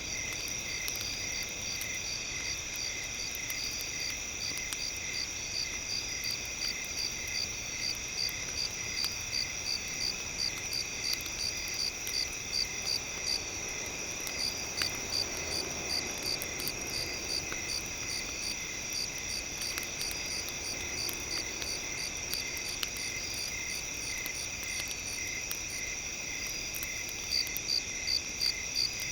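Crickets and other night insects chirping in several layered, steady trills, one pulsing a few times a second, with faint scattered crackles.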